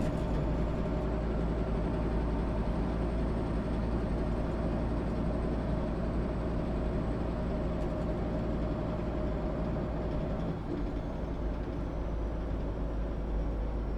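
1996 MAN SÜ 272 NCT bus's diesel engine running steadily, with a faint high whine that slowly falls in pitch.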